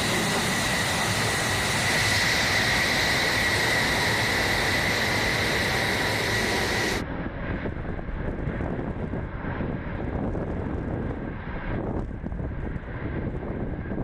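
F-35A Lightning II's F135 afterburning turbofan engine roaring with a steady high whine. About halfway through it cuts off suddenly to a quieter, duller roar.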